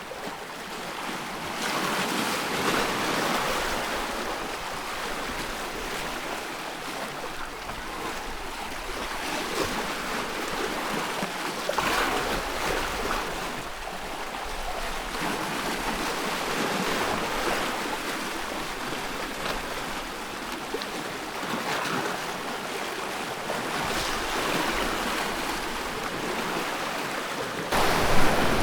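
Ocean waves washing in surf, a steady hiss that swells and eases every few seconds. Near the end it turns suddenly louder, with a low rumble.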